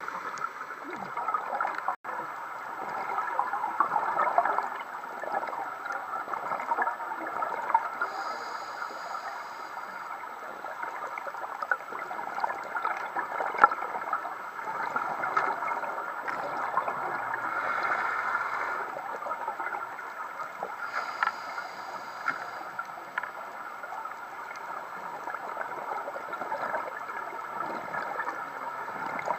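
Underwater sound of scuba breathing: exhaled bubbles gurgling and crackling, swelling every few seconds, with a few short hisses.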